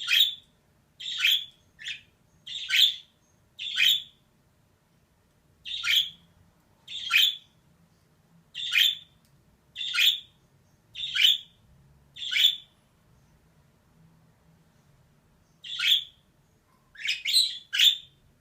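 Female budgerigar giving short, sharp calls, roughly one a second. There are a couple of longer pauses, and a quick run of three calls comes near the end.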